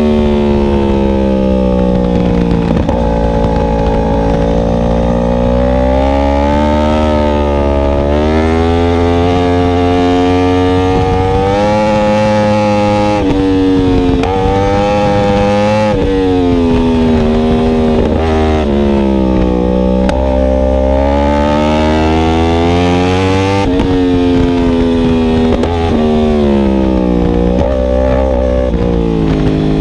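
Yamaha R1M's crossplane inline-four through an Akrapovic exhaust, heard from onboard while riding: the engine note climbs under throttle and falls again over and over, with several sudden drops in pitch at gear changes or throttle lifts. A steady low rush runs underneath.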